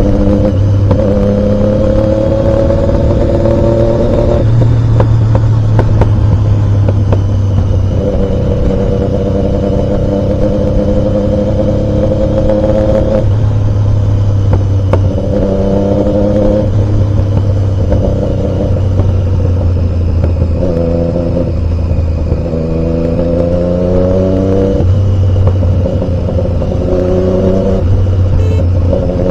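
Triumph Daytona 675's three-cylinder engine running under way, its note climbing through each gear and then dropping or breaking off at every shift, several times over, above a steady low rumble.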